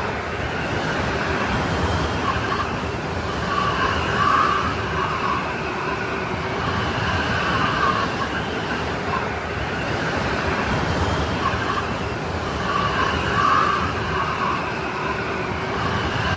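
Strong snowstorm wind blowing steadily, with a whistling tone that swells and fades every four to five seconds.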